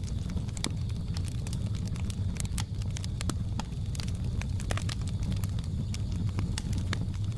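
Wood fire crackling, with frequent sharp irregular pops over a steady low rumble of the flames, and a faint steady high-pitched hum behind.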